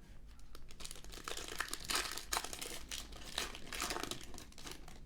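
Wrapper of a basketball trading card pack being torn open and crinkled by hand, a dense crackling that eases off near the end.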